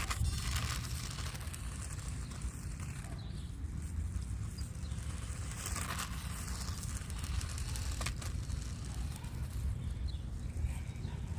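Low wind rumble on the microphone, with faint swells of noise from a small electric RC short-course truck driving over the ground, and a single sharp click about eight seconds in.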